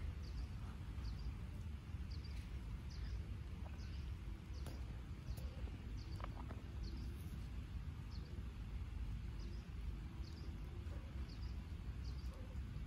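Rural outdoor ambience: a bird repeats a short, high, slightly falling chirp about twice a second over a low, steady rumble, with a few faint ticks.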